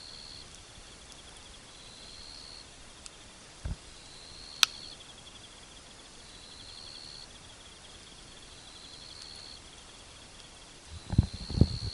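Insects chirping: a steady pulsing trill with a short rising chirp repeated about every two seconds. A single sharp click about four and a half seconds in, and a few low knocks near the end.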